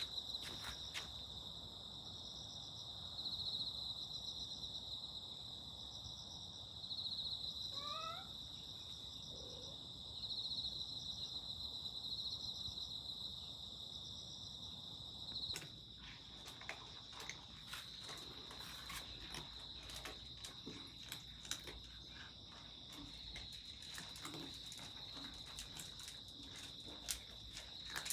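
Insects trilling steadily in a high chorus that swells every few seconds. A short rising call comes about a third of the way in, and from about halfway a scatter of small clicks and taps joins.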